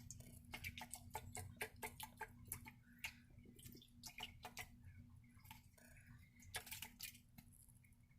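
Baby starling drinking at its bath water: faint, irregular clicks and taps of its beak pecking at the water and dish, several a second.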